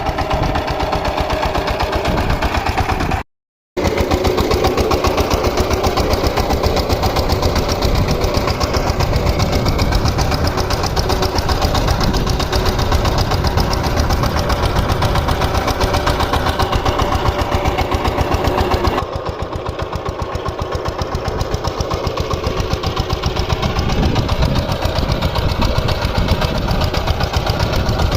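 VST Shakti 130-DI single-cylinder diesel engine running steadily with an even, fast firing beat. The sound cuts out for a split second near the start, and it drops slightly in level and brightness about two-thirds of the way through.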